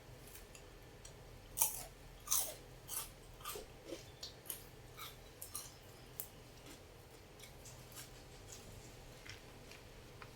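Close eating sounds of a person chewing: a run of crunchy, crackling bites, loudest about one and a half to two and a half seconds in, thinning to small mouth clicks after about six seconds.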